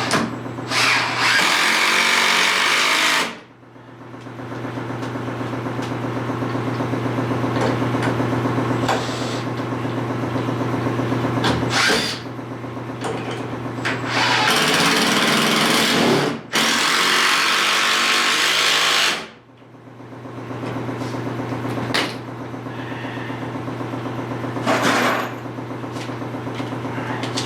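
Power drill running in long spells, with a steady motor hum and stretches of louder, harsher grinding as it works into the material. It stops abruptly twice and then winds back up.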